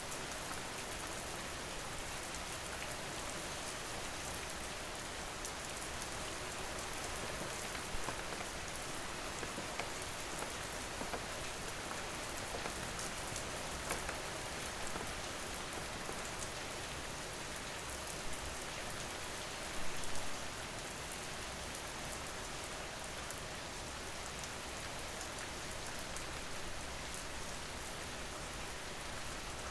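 Steady rain falling: an even hiss with scattered drop ticks, and a brief louder patch about twenty seconds in.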